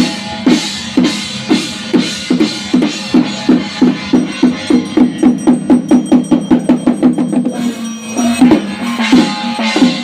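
Drum beaten in a steady rhythm of about two strokes a second, quickening to about four a second near the middle, then easing back to the slower beat.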